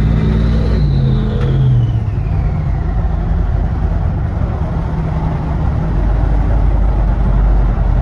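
Modified Dodge Ram 1500 Hemi V8 pickup under throttle, its loud exhaust drone rising and settling after a lane change. A high whine falls away over the first couple of seconds while the low exhaust rumble carries on steadily.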